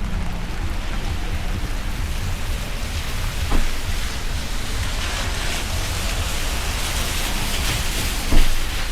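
Steady hiss of rain falling, with a low rumble underneath. Two short knocks stand out, one about three and a half seconds in and one near the end.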